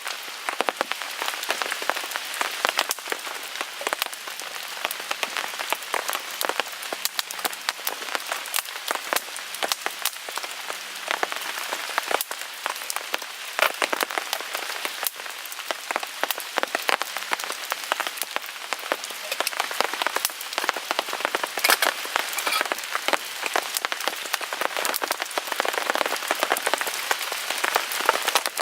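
Steady rain on a tarp overhead, mixed with a wood fire crackling in a small folding steel grill: a continuous hiss full of dense, irregular clicks and pops.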